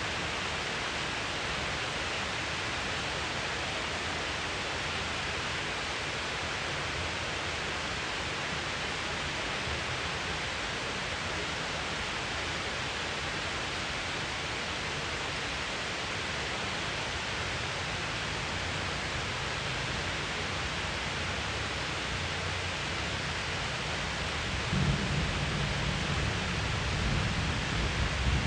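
Steady heavy rain, with a low rumble of thunder building up about 25 seconds in and continuing to the end.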